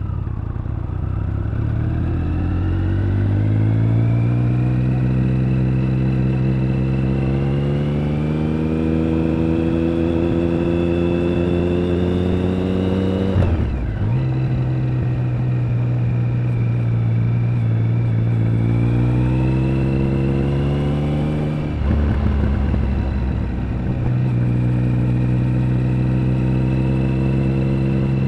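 Triumph Speed Triple 1050's inline three-cylinder engine and exhaust under way. It pulls through a gear with the pitch rising slowly, shifts up about halfway through with a sudden drop in pitch, and pulls again. A second shift comes near the end, then it holds a steady cruise.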